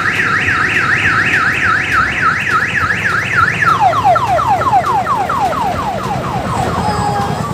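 Electronic siren on a tourist mini train sounding a rapid series of rising whoops, about three a second, that switch a little past halfway to a series of falling sweeps. An engine runs steadily underneath.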